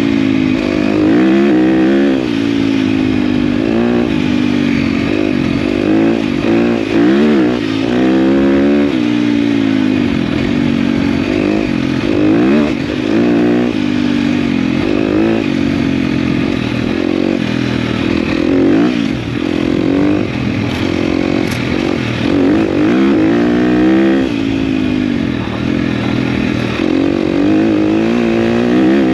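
KTM dirt bike engine being ridden on a trail, revving up and falling back again and again as the throttle is opened and closed.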